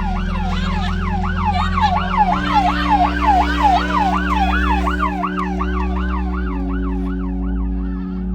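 Emergency vehicle siren on a fast yelp, its pitch sweeping up and down about three times a second and fading near the end, over a steady low hum.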